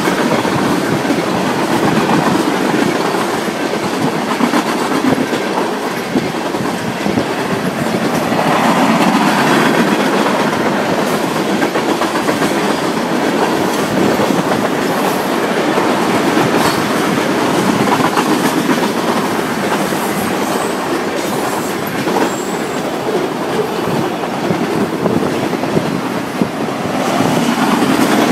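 Freight cars of a passing train (tank cars, covered hoppers, then autorack cars) rolling by close at hand in a steady rumble of wheels on rail, swelling and easing every few seconds, with faint clicks as the wheels pass over the rails.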